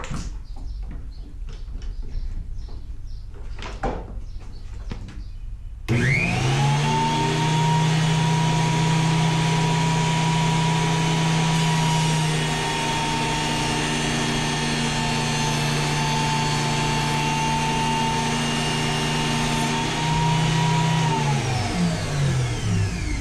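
Wen JT833H 8-inch jointer's motor and spiral cutterhead switched on about six seconds in. It comes up to speed quickly, runs at a steady hum and whine, then is switched off and winds down with falling pitch near the end. Before it starts there are a few clicks and knocks.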